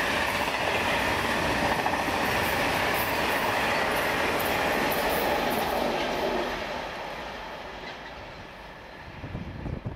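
Loaded container wagons of an intermodal freight train running past, wheels clattering on the track. The noise fades from about six seconds in as the last wagon draws away, and a brief low rumble rises just before the end.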